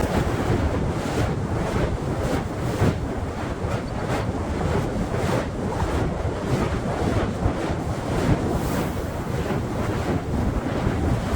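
Heavy Gulf surf washing onto the beach, with wind buffeting the microphone.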